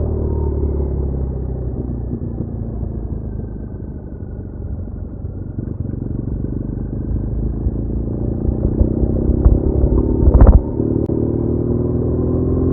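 BMW R1200R boxer-twin motorcycle engine running on the road under wind rumble, its note easing off and then climbing as the bike accelerates in the second half. A brief loud thump sounds about ten seconds in.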